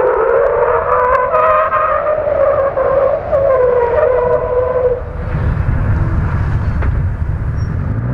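Classic rear-wheel-drive Lada rally car's engine revving hard, its pitch wavering up and down as the car drifts sideways through a hairpin. About five seconds in the engine note fades as the car pulls away, leaving a low rumble.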